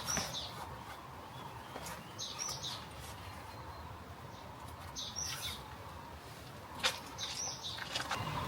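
Birds chirping outdoors: short high calls come in little groups about every two to three seconds, four times, over a faint background hush. A single sharp click sounds about seven seconds in.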